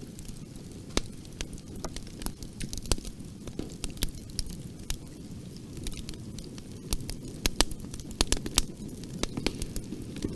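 Wood fire burning in a fireplace: a steady low rumble with sharp, irregular crackles and pops, coming thickest a little past the middle.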